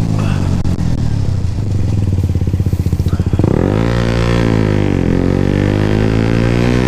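125 cc motorcycle engine pulling away: a low, evenly pulsing run for about a second, then the revs rise from about halfway in, dip briefly in a gear change and climb again.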